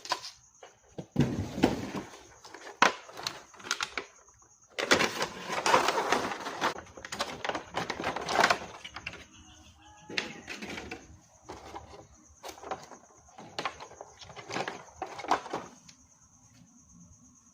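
Packaging and small plastic parts being handled: irregular rustling and clicking, densest in a stretch about five seconds in. A faint steady high tone runs underneath.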